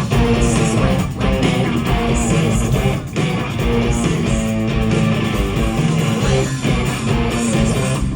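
A live rock band playing an instrumental passage at full volume, led by guitars over the bass guitar and drums, with no vocals.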